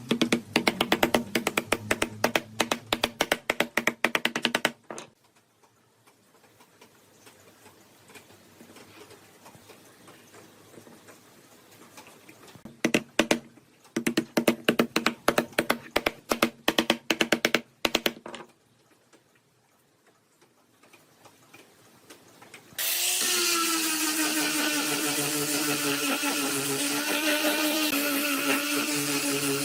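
Two spells of rapid mechanical clicking from a hand power tool at work, then a power tool motor starts up about three-quarters of the way through and runs steadily, its pitch settling just after it starts.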